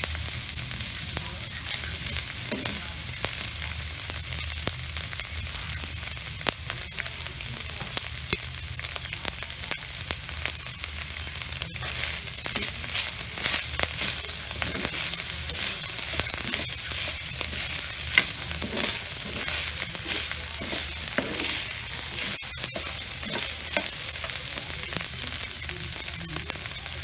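Ground beef, black beans and corn sizzling in a wok while being stirred, the metal spoon scraping and clicking against the pan, with one louder knock about 18 seconds in.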